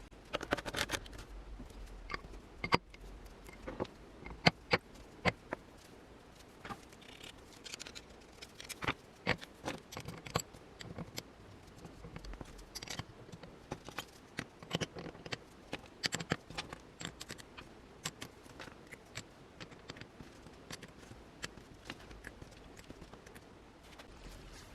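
Irregular small clicks, taps and short scrapes of hand work on small parts, coming in scattered clusters with brief pauses between.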